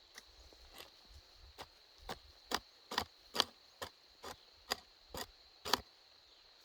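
A run of sharp knocks or strikes, about two a second, loudest in the middle, over a steady high-pitched hum.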